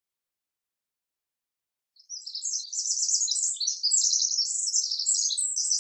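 Songbirds chirping in quick, high trills, starting about two seconds in after silence.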